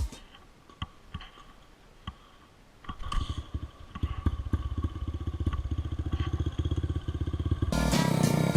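A few clicks, then a dirt bike engine comes in about three seconds in, running with an even low pulse, and gets louder near the end.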